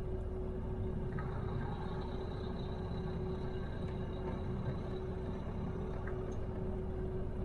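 Truck engine running at a steady idle, heard from inside the cab as a low rumble with a constant hum.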